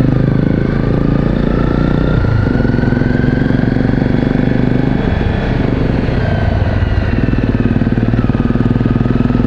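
Single-cylinder four-stroke trail bike engine running steadily at low speed, its pitch rising and falling gently with the throttle.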